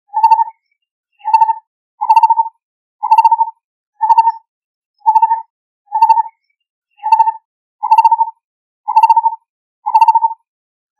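Lineated barbet calling: a steady series of low, rolling hoots, about one a second, each a quick trill of a few pulses.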